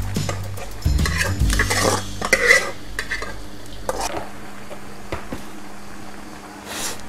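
Cubes of tofu deep-frying in a wok of hot oil, sizzling steadily. Metal tongs clink and scrape against the wok a few times in the first half.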